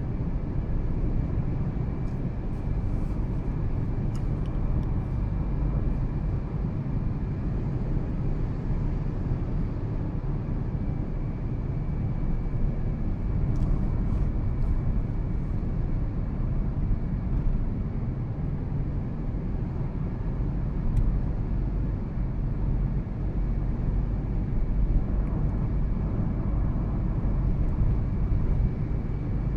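2013 Toyota Prius driving: steady road and tyre noise with a low rumble, and a faint thin steady tone above it.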